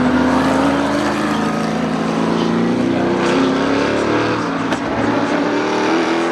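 Group C sports-prototype race cars' engines running hard, a loud sustained engine note that climbs slowly in pitch as the cars accelerate, with more than one engine note overlapping.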